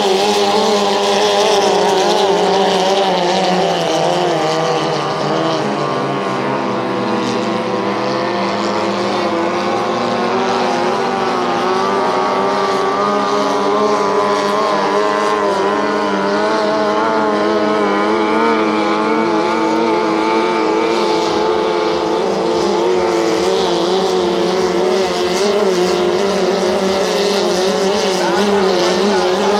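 Outboard motors of racing tunnel boats running hard, a continuous loud engine sound whose pitch wavers up and down as the boats run.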